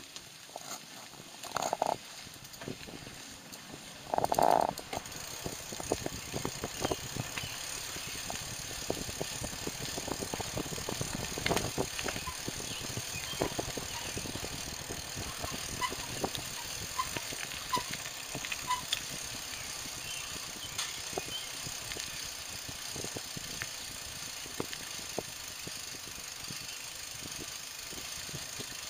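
Tandem bicycle riding along, with the bike rattling and clicking and wind and handling noise on the microphone of a camera strapped to a rider's hand. A brief louder sound about four seconds in.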